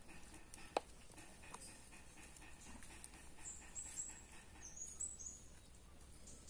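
Faint high chirps of a small bird, a quick run of short notes around the middle. A single sharp click about a second in is the loudest sound.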